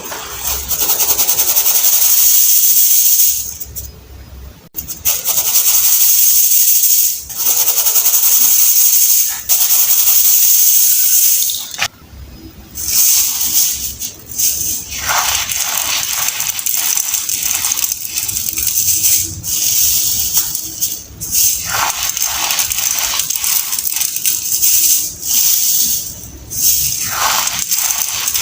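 Dried baking soda being crushed by hand, a crunchy, crackling crumbling. It comes in long continuous stretches at first, then in shorter separate crunches in the second half.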